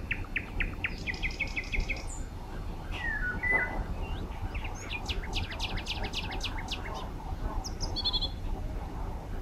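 Songbirds singing: several quick runs of evenly repeated high chirps, a couple of short falling notes about three seconds in, and a fast trill around the middle. A steady low rumble sits underneath.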